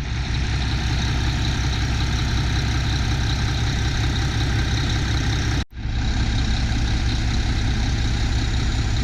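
Mack MP7 straight-six diesel engine of a dump truck idling steadily, with a momentary break a little past halfway through.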